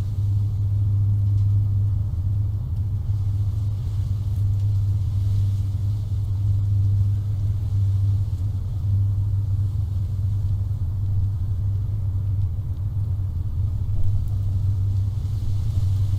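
Steady low rumble with no clear changes.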